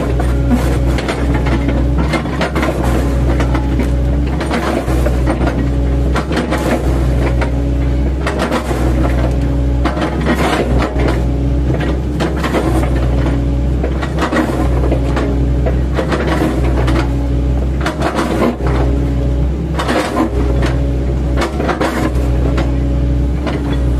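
Mini excavator's diesel engine running steadily under working load, with frequent irregular knocks and cracks as its bucket, fitted with chipping blades, chops up oil palm trunk.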